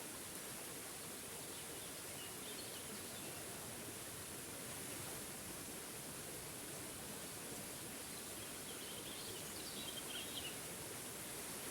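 Waterfall rushing steadily, with a few faint bird chirps about two to three seconds in and again around nine to ten seconds in.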